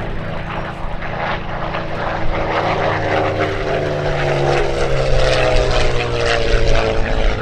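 Piston-engined propeller aircraft flying past low, its engine and propeller note dropping steadily in pitch as it goes by, over a steady low rumble.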